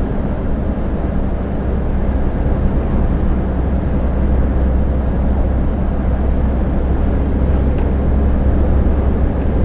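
Heavy truck driving at steady speed, heard from inside the cab: a constant low diesel engine drone with tyre and road noise.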